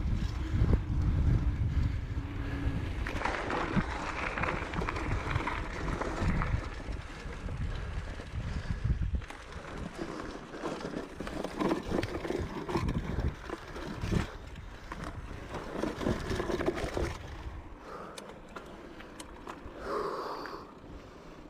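Wind buffeting the microphone, with a bicycle rolling and rattling over a dirt trail. The heavy wind rumble drops off about nine seconds in, leaving quieter rustling and knocks.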